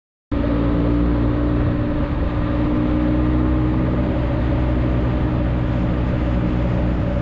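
Motorcycle engine running steadily at an even speed while riding, cutting in abruptly out of dead silence just after the start.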